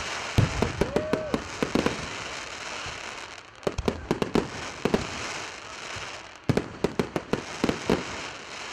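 Fireworks display: rapid volleys of aerial shell bursts, sharp bangs in three clusters over a continuous crackle of glittering stars.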